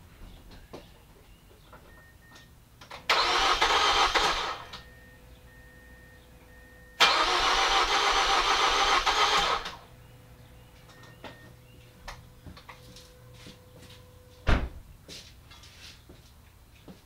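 2005 Mazda 6 starter cranking the engine in two tries, the first about a second and a half long and the second about two and a half seconds, each cutting off without the engine catching: a no-start. Between tries there is a faint repeating beep and a faint steady tone, and a single thump comes near the end.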